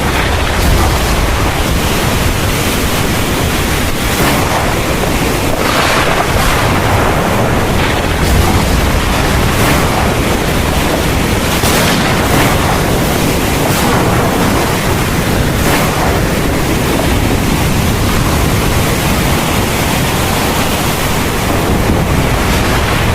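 Heavy rain pouring steadily as a dense hiss, with brief louder surges every couple of seconds.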